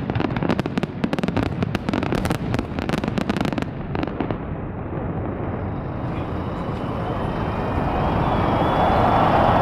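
A fireworks display: a rapid barrage of bangs and crackles that thins out and stops about four seconds in. It gives way to a steady rushing noise that grows louder toward the end.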